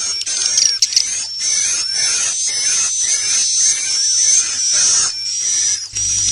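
Edible-nest swiftlets calling: a dense chorus of high, rapid chirps and trills mixed with quick clicks. This is the roosting ('inap') call used to lure swiftlets into a swiftlet house. A steady low hum runs underneath and gets louder just before the end.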